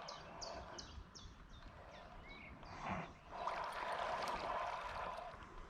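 A small bird calling a quick series of high, downward-sliding notes, about three a second, for the first second or so. About three and a half seconds in, a longer swishing rush of water noise follows.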